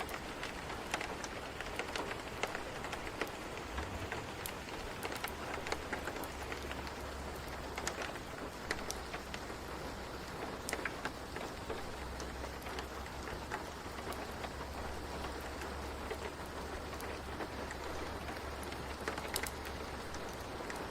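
Steady rain ambience with scattered sharp crackles and pops, as of a fireplace under the rain. A low rumble comes in about four seconds in and fades near the end.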